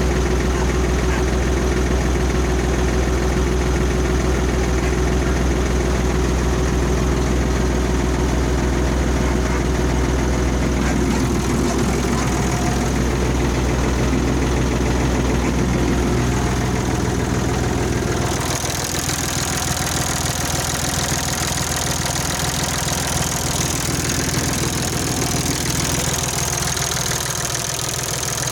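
Ursus C-360 3P tractor's four-cylinder diesel engine running steadily. About two thirds of the way in the sound changes, losing its deep low tone and turning brighter and hissier.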